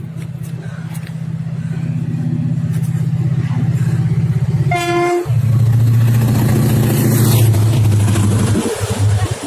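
Diesel locomotive hauling a freight train, its low engine drone growing louder as it approaches and passes, with one short horn blast about five seconds in.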